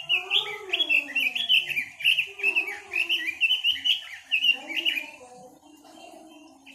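A songbird sold in Vietnam as 'quế lâm' singing a fast, varied run of chirping, whistled notes, loud for about five seconds and then softer.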